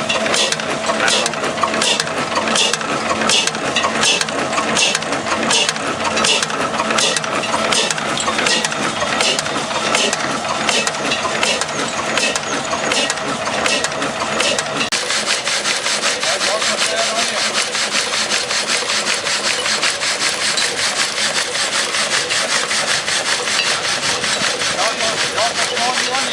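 Big reciprocating saw driven by a THOMASSEN 30-horsepower diesel engine, cutting wood with evenly spaced rasping strokes, about two a second. About halfway through, the strokes turn faster and denser.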